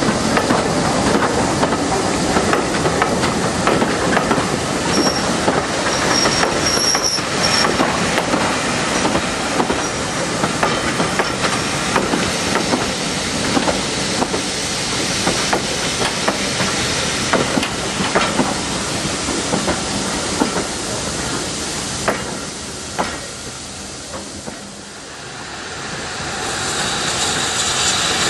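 Railway coaches rolling past close by, their wheels clicking over the rail joints, with a brief high wheel squeal about five to seven seconds in. The rolling noise fades away a little over twenty seconds in, then rises again near the end as a steam locomotive draws near.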